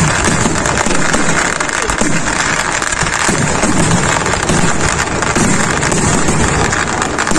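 Temple-festival fireworks barrage (vedikkettu): a dense, continuous crackle of many firecrackers going off in rapid succession, loud and unbroken.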